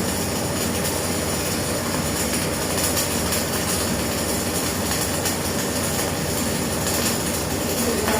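Arc welding running steadily while a fillet weld is laid: a continuous, even noise with no pauses.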